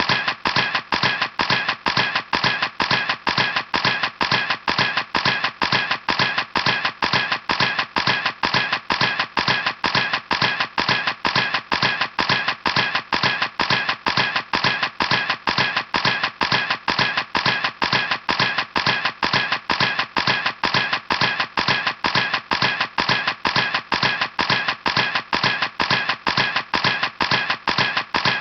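Camera clicking over and over at a perfectly even pace, about three sharp clicks a second.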